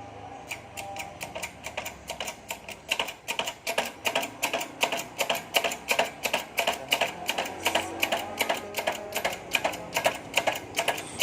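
Rapid, regular metallic clicks or taps, about four a second and uneven in strength, starting about half a second in.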